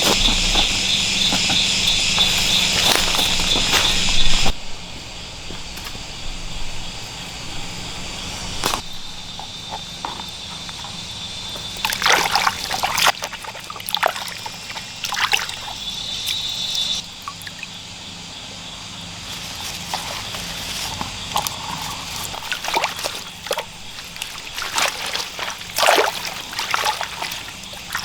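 Water sloshing and trickling, with scattered splashes and knocks. For the first few seconds a shrill insect chorus sounds over it, then cuts off suddenly.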